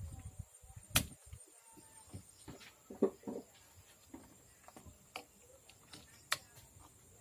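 A few sharp clicks and small knocks, with two louder clicks, one about a second in and one about six seconds in, and a couple of short faint pitched sounds around three seconds.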